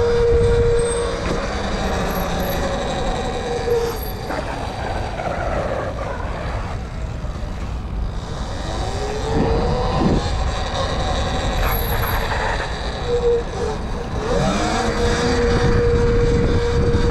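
Riding a Sur-Ron electric dirt bike: a heavy rumble of wind on the microphone, with a thin electric motor whine that holds steady, dips and rises a few times mid-ride as speed changes, then steadies again near the end.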